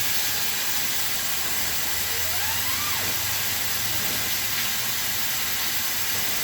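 Water hissing steadily as it sprays from a burst water supply hose line.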